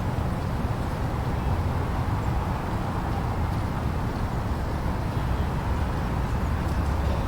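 Blizzard wind blowing steadily, a low rushing rumble with no breaks.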